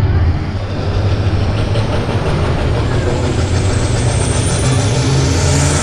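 Antique tractor's engine running hard and steady under load while pulling in a tractor pull, a deep low drone.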